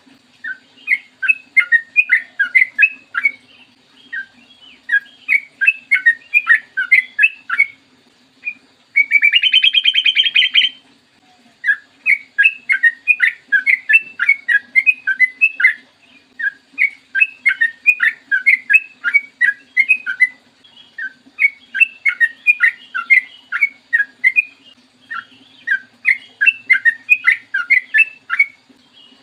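Yellow-vented bulbul (trucukan) song: repeated phrases of quick bubbling notes, each about two seconds long with short pauses between. About nine seconds in comes a louder, denser continuous call lasting about a second and a half. A faint steady low hum runs underneath.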